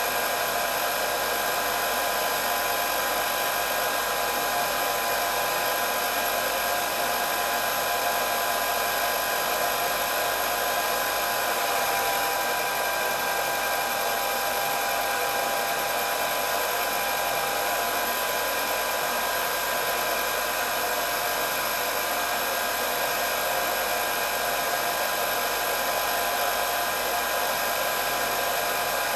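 Hair dryer running steadily: an even rush of blown air with a steady high motor whine.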